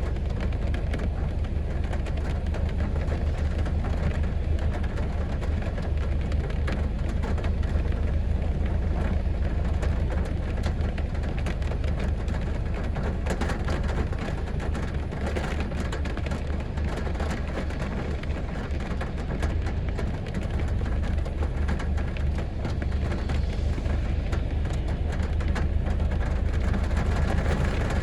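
Heavy rain falling steadily on a city street: a dense patter of drops over a constant low rumble.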